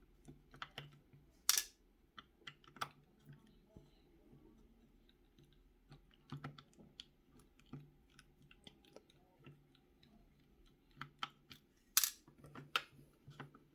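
Scattered small clicks and taps of a Corbin Master Ring mortise lock cylinder and hand tools being handled as it is taken apart, with two sharper clicks, one about a second and a half in and one near the end.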